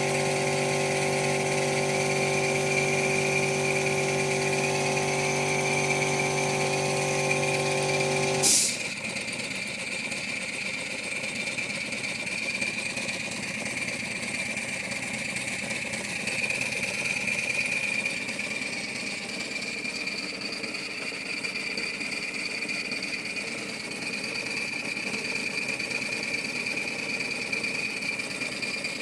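LBSC Ayesha miniature live-steam locomotive running under test, its motion and axle pump making a rapid, steady mechanical clatter. A steady hum sounds over it at first and cuts off with a sharp click about eight and a half seconds in.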